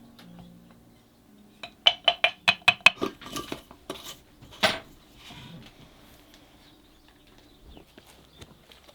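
A metal utensil clinking rapidly against a glass jar: about six quick ringing clinks, then a few softer ones and a single louder clink, typical of stirring or tapping while making flower-infused oil.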